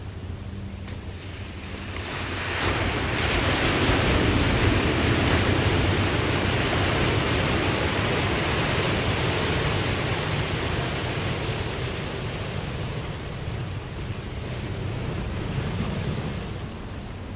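Waterfall rushing steadily, with a gust of wind that swells up about two seconds in, holds and then slowly dies away near the end.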